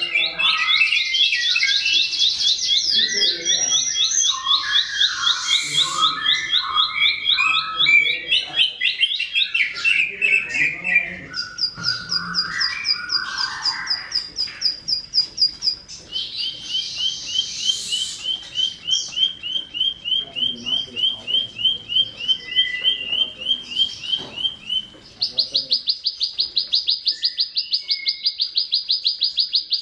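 Prinia (ciblek sawah) singing: long, fast trills of rapidly repeated high notes, each held at one pitch for several seconds before switching to a higher or lower trill, with scratchy chattering notes mixed in during the first half.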